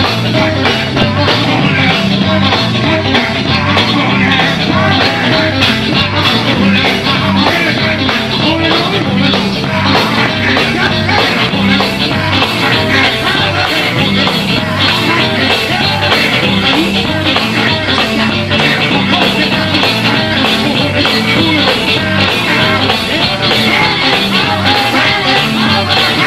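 Live gospel band playing loud up-tempo music with a driving bass line and drums, with singing over it.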